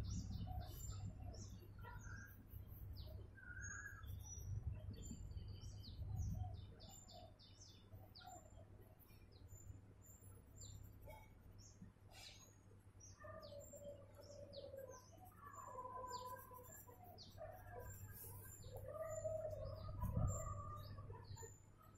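Small birds chirping in the background: many short, high chirps scattered throughout, over a faint steady low hum. A soft low bump comes near the end.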